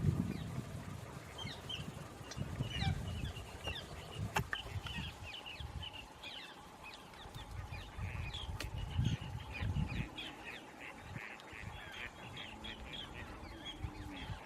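Many wetland birds calling at once: a dense chorus of short, overlapping calls, with a few low rumbles now and then.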